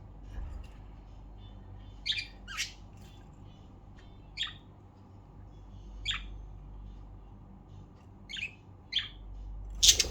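Pet budgerigars giving short single chirps every second or two, with a burst of louder squawking right at the end.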